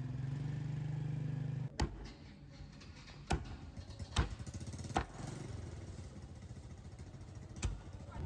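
A small engine running, loud for the first couple of seconds and then dropping to a lower, weaker hum, with five sharp knocks over it.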